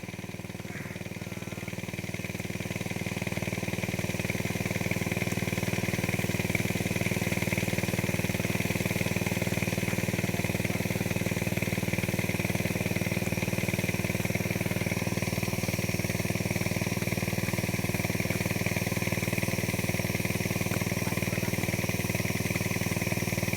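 Small engine of a power crop sprayer running steadily at constant speed, getting louder over the first several seconds and then holding even.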